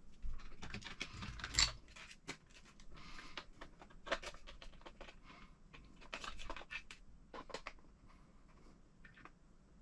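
Irregular light clicks and clatter from small hard parts and hand tools being handled on a workbench during kit assembly. The loudest click comes about a second and a half in.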